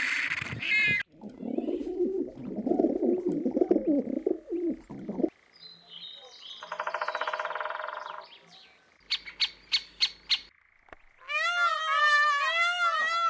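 A run of different animal calls in quick succession: a low rough call, then a short buzzing call, a quick series of about six sharp high chirps, and near the end repeated arched bird calls.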